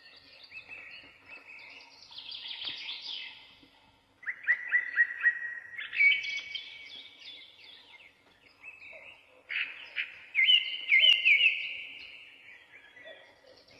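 Small birds chirping in quick series of high twittering notes, loudest about four seconds in and again around ten to eleven seconds in.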